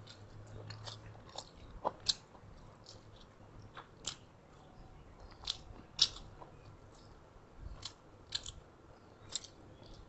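Close-miked eating sounds from people eating rice with chicken and pork by hand: soft chewing with short, irregular mouth clicks and smacks, a few of them sharper.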